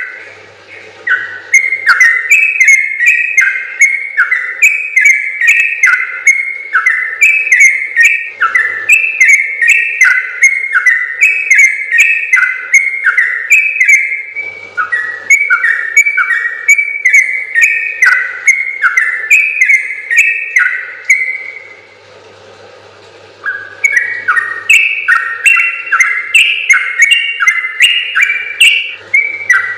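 Yellow-vented bulbul (trucukan) singing a long, fast run of bubbly notes, several a second, with short breaks about a second in and again about three quarters of the way through.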